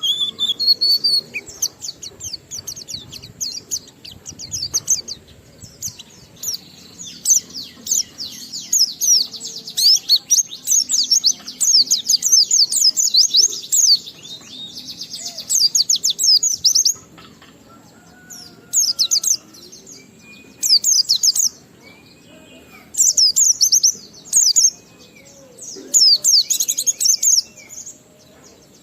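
White-eye (pleci) singing a rapid, high twittering song. In the first half it sings in long, nearly unbroken runs, then in short bursts of a second or two with pauses between them.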